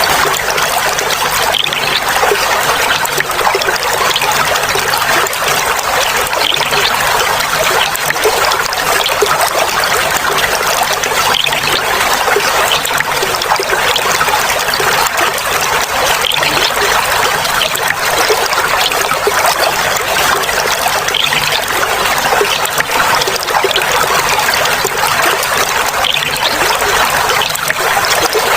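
Clear water flowing and trickling steadily, a constant babbling splash with no pauses.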